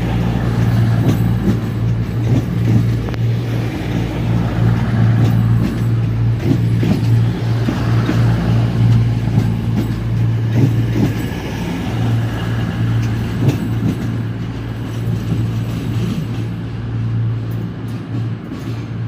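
Class 220 Voyager diesel-electric multiple unit with its underfloor diesel engines running, a steady low hum at the platform that eases off a little near the end.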